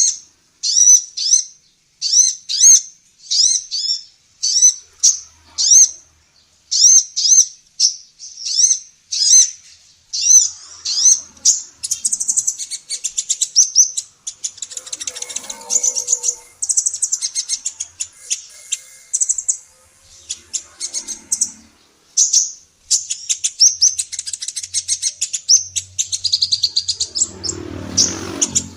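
Female sunbird ('kolibri ninja') calling in high, sharp chirps in quick repeated groups, running into a rapid, near-continuous twittering about halfway through.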